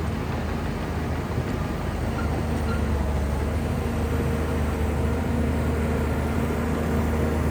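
Shantui crawler bulldozer's diesel engine running steadily, growing a little louder about two seconds in.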